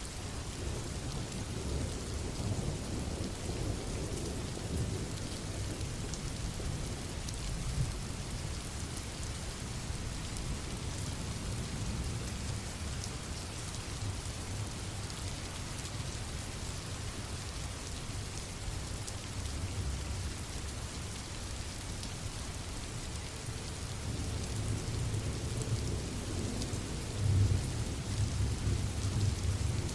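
Steady rain falling, with low rumbling thunder underneath that swells in the last few seconds.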